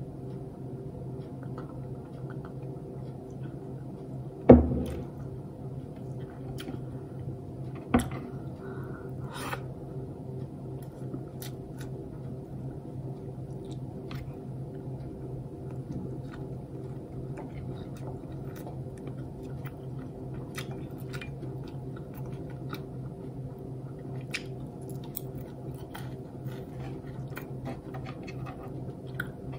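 Close-up mukbang eating sounds: soft chewing and small scattered clicks of eating by hand, over a steady low hum. A loud knock comes about four and a half seconds in, and a sharper click near eight seconds.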